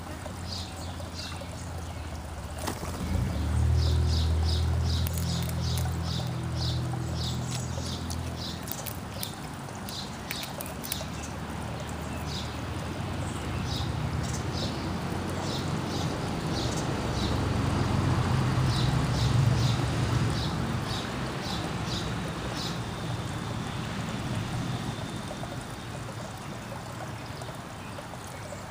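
Small backyard birds chirping: runs of short, high notes repeated about three times a second, over a steady rushing background. A low rumble swells and fades twice, about four seconds in and again in the middle.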